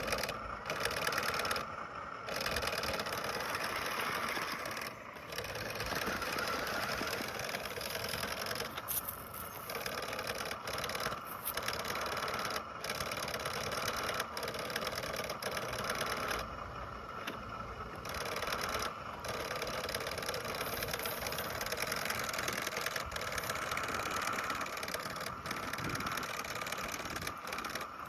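Small electric motor and gears of a toy monster truck whirring steadily, cutting out briefly many times as the truck struggles in sand with its battery running down.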